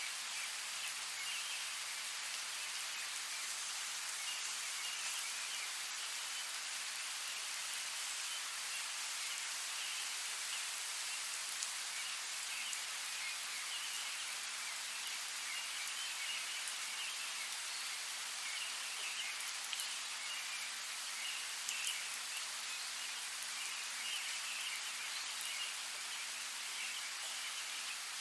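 Steady rain falling, an even hiss with a patter of drops and a few slightly louder drips.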